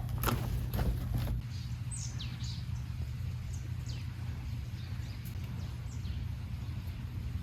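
Small birds chirping, a few short calls that sweep downward in pitch, over a steady low rumble. There are a few knocks in the first second or so.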